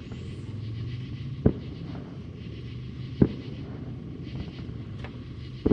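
Distant fireworks going off: three sharp booms, the last one doubled, over a steady low hum.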